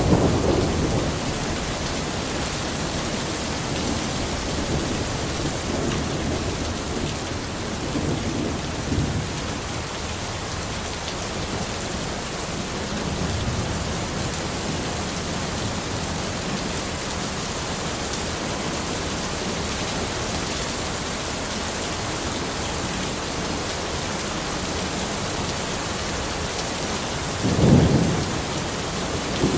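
Steady rain falling on a forest, an even hiss. Several brief low rumbles swell up over it, the strongest near the end.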